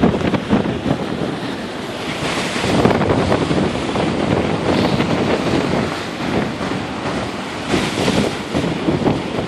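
Gale-force wind buffeting the microphone over rough Lake Michigan waves crashing in, swelling louder about three seconds in and again near the end.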